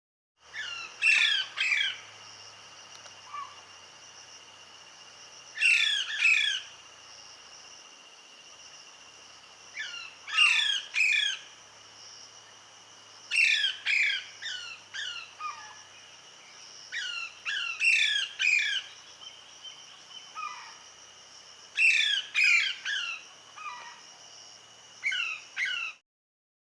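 Alexandrine parakeets giving loud, harsh squawks in short bursts of two or three calls, repeated every few seconds, with a steady high-pitched drone in the background.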